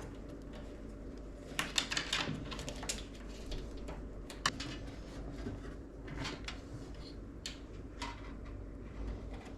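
Hands working on a PC build: scattered clicks and rustling as parts and cables are handled, with a burst of rustling a couple of seconds in and a single sharp click about halfway through.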